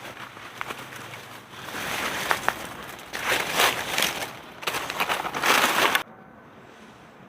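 Rustling, crunching handling noise that swells into two loud spells and cuts off abruptly about six seconds in.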